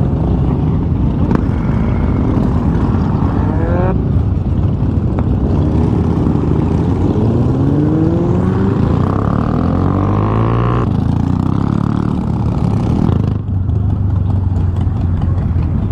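Motorcycle engine accelerating, its pitch rising several times as it revs up through the gears, over a steady rumble of wind on the microphone. The sound changes abruptly a few times.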